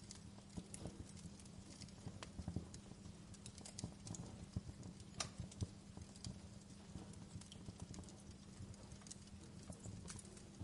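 Wood fire crackling in a fireplace: irregular sharp pops and snaps of burning logs over a low steady rumble, with a clear pop about two seconds in and another about five seconds in.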